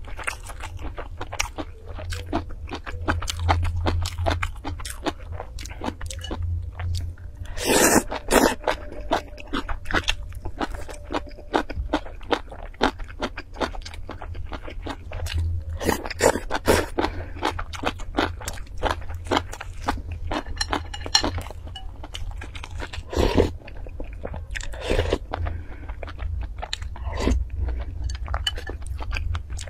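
Close-miked eating: a string of crunchy bites and chewing of food, with louder crunches about eight, sixteen and twenty-three seconds in.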